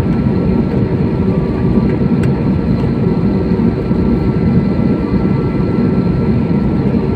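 Steady rumble of an airliner's engines heard inside the passenger cabin, with a faint steady whine on top.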